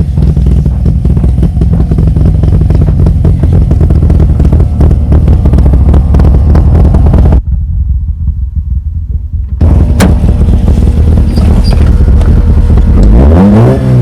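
Toyota 3T-C four-cylinder engine, built to 11.1:1 compression and balanced, running loudly. The sound drops away for about two seconds partway through, then the engine runs on and is revved up sharply near the end.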